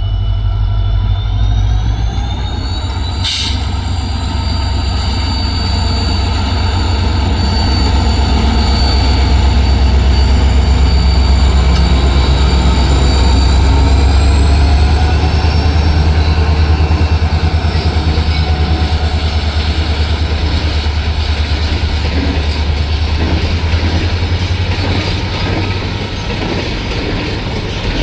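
Train running past at the station: a heavy, steady rumble with a thin whine that slowly rises in pitch, and a sharp click about three seconds in.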